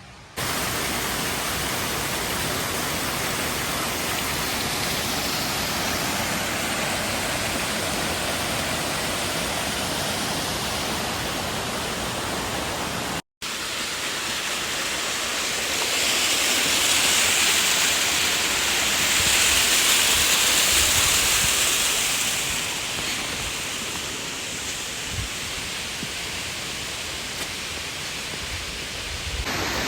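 Waterfall: a steady rush of falling water. It breaks off for an instant about halfway, then comes back louder and brighter for several seconds before settling again.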